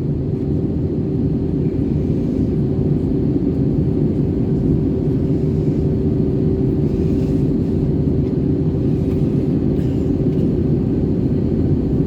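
Steady low rumble with a constant hum inside the cabin of an Airbus A320-214: engine and airflow noise heard from a window seat.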